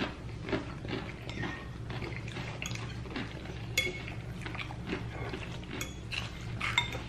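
Fork or other cutlery clicking and scraping against a plate while eating, with two brighter ringing clinks, one about four seconds in and one near the end.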